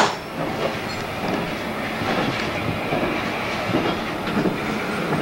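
A moving freight train heard from inside one of its cars: a steady running noise with wheels clacking over the rail joints, and a brief louder clatter at the very start.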